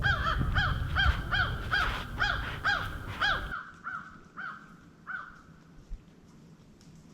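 A bird calling in a fast series of arched, pitched calls, about two a second, fading out about five seconds in. A low rumble runs underneath and stops abruptly about three and a half seconds in.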